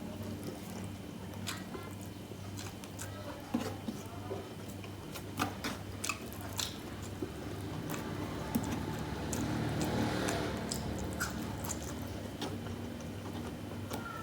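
Close-up eating sounds: a person chewing and biting food, with scattered small mouth clicks and a denser stretch of chewing near the middle, over a steady low hum.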